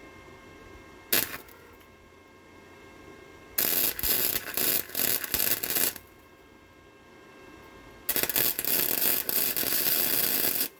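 Arc welder tack welding an exhaust tip, the arc crackling and sizzling in bursts: a brief strike about a second in, then two runs of a couple of seconds each.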